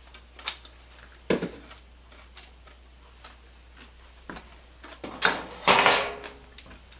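Crunching and chewing of a candy-shelled milk chocolate egg: a few sharp crunches, then a louder clatter about five to six seconds in.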